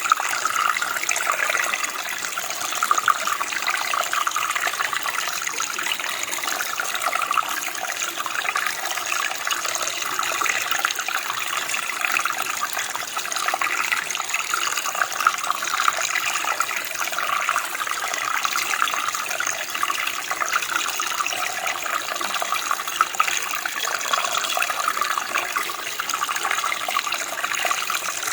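Running water flowing steadily, an even splashing rush with small irregular peaks.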